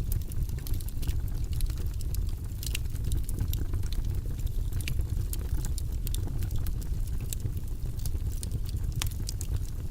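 Fireplace wood fire crackling, a steady low rumble of burning under scattered sharp snaps and pops, with louder pops about three seconds in and near the end.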